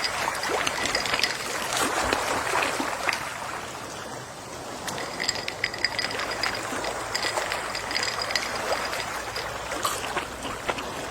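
Gentle sea waves washing on a shore, a fizzing, trickling wash that swells and eases, cresting about two seconds in and again past the middle.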